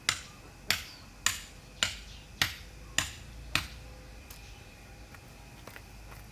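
A run of sharp knocks, evenly spaced at nearly two a second, each with a short ring, stopping after about three and a half seconds.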